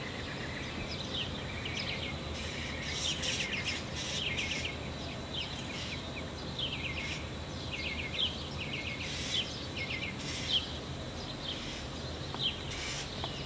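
Songbirds singing: short, downward-sweeping chirps and trills repeated about once a second, over a steady low background hum.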